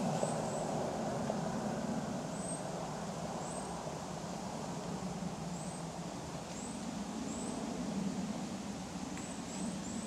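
Audi Ur-quattro's turbocharged five-cylinder engine running as the car pulls away, fading gradually with distance and swelling briefly about eight seconds in.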